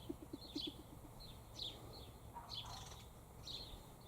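Wild birds chirping faintly in the background, short high chirps repeating about twice a second. A quick run of low pulsing notes comes in the first second.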